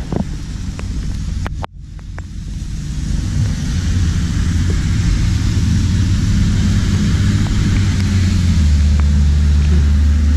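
Vehicle running on a wet, slushy road: a low engine hum with tyre hiss and spray that grows louder as it picks up speed. The sound cuts out briefly about two seconds in.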